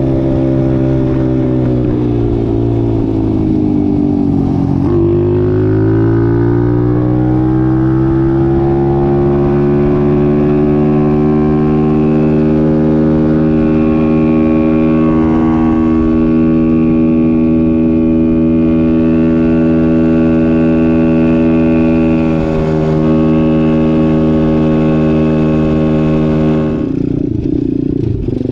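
Dirt bike engine running under way. Its pitch falls over the first few seconds, then climbs again and holds steady at cruising revs, changing abruptly near the end.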